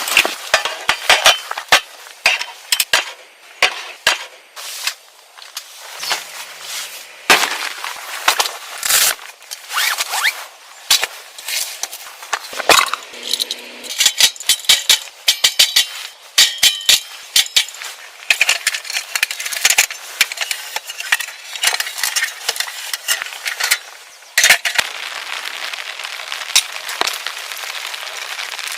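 Camp cooking work: a dense, irregular run of sharp clicks, clinks and knocks, then from about 25 seconds in a steady hiss.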